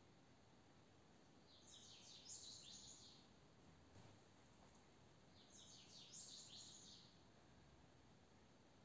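Near silence with two short bursts of high bird chirping, each about a second and a half long and about four seconds apart.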